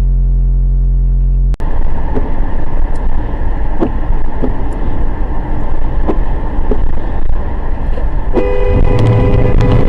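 Car driving with loud road and engine noise and scattered clicks, after a low steady drone cuts off suddenly about a second and a half in. A steady horn-like tone sounds for the last second and a half.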